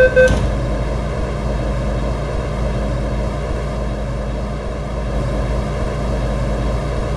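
Door-closing chime of an MTR M-Train cutting off right at the start, then the train's steady low rumble and hum with its doors shut.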